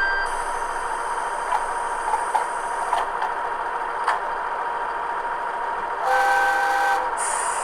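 Simulated Kiha 110 diesel railcar sound from a KATO HO-scale model's DCC sound decoder: a steady hiss and hum with a few light clicks, then one horn blast of about a second, about six seconds in. A short hiss of air follows the horn near the end.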